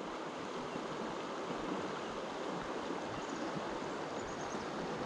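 Steady rushing of a river's current flowing over its bed.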